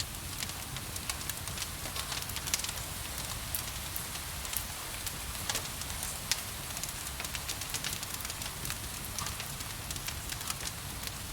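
Wood fire crackling, with irregular sharp pops and snaps, over a steady hiss of gentle rain and a low steady rumble.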